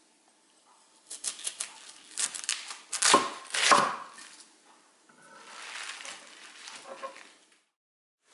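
Kitchen knife chopping on a cutting board: scattered quick strikes, the two loudest about three seconds in, followed by a softer, noisier stretch that stops suddenly near the end.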